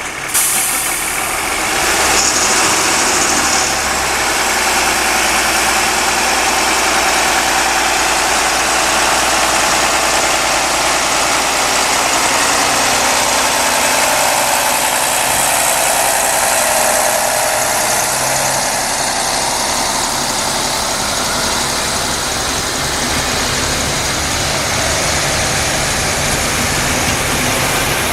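Diesel train engine running steadily, with a broad, even rushing noise over it.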